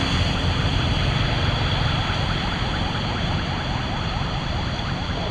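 Floodwater rushing steadily down an unclogged street drain, a loud even noise with a deep low rumble. From about two seconds in, a run of faint, quick, rising chirps sits on top.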